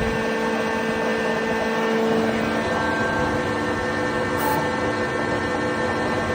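Marble chain saw quarry cutting machine running: a steady mechanical drone with a constant pitched hum.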